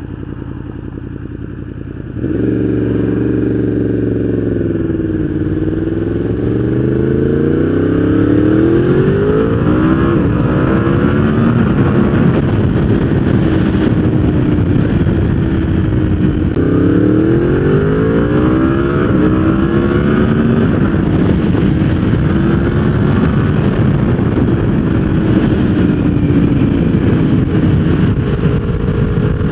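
Yamaha R1 inline-four with a full exhaust system, running hard and loud. It jumps in level about two seconds in, then its pitch dips and climbs as it pulls, and climbs again about halfway through before holding steadier near the end.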